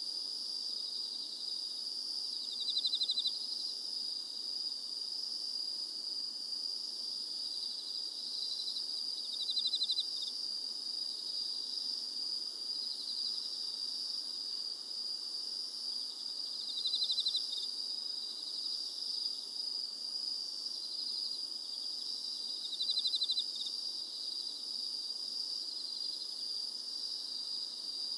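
Night-time insect chorus: a steady high-pitched drone, with a louder buzzy trill breaking in four times, about every six to seven seconds.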